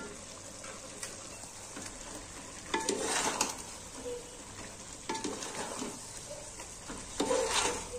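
Mutton and masala sizzling as they fry down in a large aluminium pot, the meat cooking in its own released juices and oil, while a steel ladle stirs and scrapes through it. Louder stirring strokes come about three seconds in and again near the end, with a few light clinks of the ladle on the pot.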